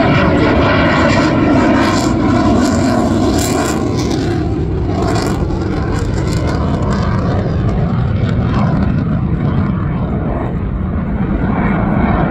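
Jet noise of a Eurofighter Typhoon's two EJ200 turbofan engines in display flight: a loud, continuous rumble that grows brighter and harsher between about two and five seconds in.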